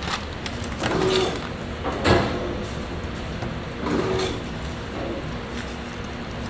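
Food-processing machinery running, with a series of short mechanical strokes at uneven intervals, the sharpest about two seconds in.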